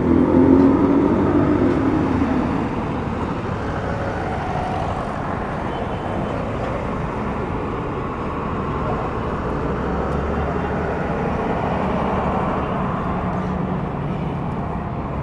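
City street traffic: a motor vehicle passes close by at the start, its engine rumble fading over the first two seconds, then a steady wash of traffic noise.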